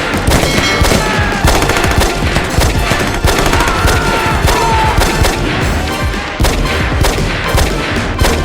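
Battle sound effects: rapid, dense gunfire with machine-gun bursts, over background music.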